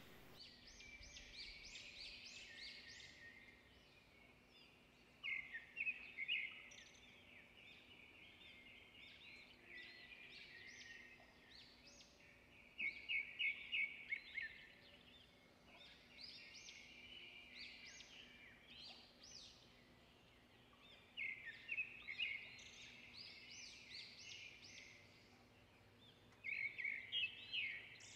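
Small birds chirping faintly in repeated bursts of quick, high chirps every few seconds.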